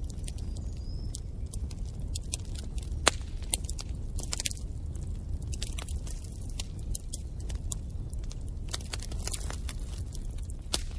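Wood fire burning in a fireplace: a steady low rumble of flames with irregular sharp crackles and pops, one louder pop about three seconds in.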